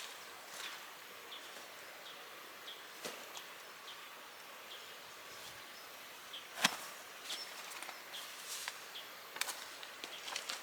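Quiet outdoor ambience with scattered light clicks and handling taps and one sharper click about two-thirds of the way through, over faint short chirps repeating about every 0.7 seconds.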